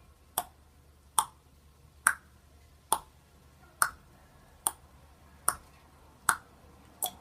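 A single sharp click repeating at an even pace, nine times about 0.85 seconds apart, over a faint low hum.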